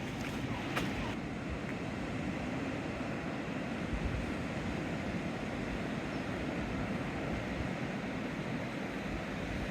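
Sea waves washing steadily along the seawall, with some wind on the microphone.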